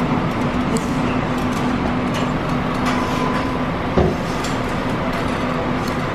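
Steady hum and rush of commercial kitchen equipment and ventilation, with scattered light clinks and one knock about four seconds in.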